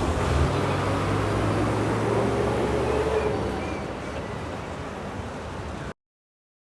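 A vehicle's engine running with steady road traffic noise, fading slightly and then cutting off abruptly near the end.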